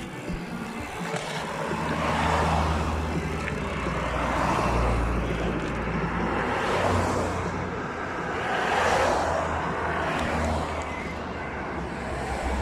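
Road traffic: several cars passing one after another, their tyre noise swelling and fading about every two seconds over a steady low engine hum.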